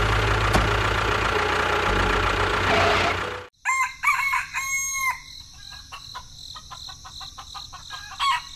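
An engine runs steadily, then cuts off suddenly about three and a half seconds in; a rooster crows just after, followed by scattered clucks, with crickets chirping steadily behind.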